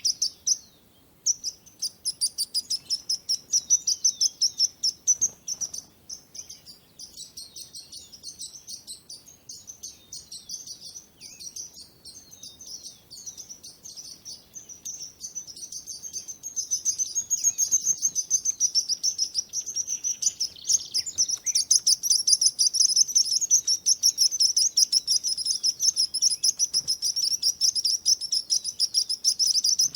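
Small songbirds chirping in rapid, high-pitched trills that barely pause. The chirping gets louder about halfway through, and a second, even higher voice joins in the last third.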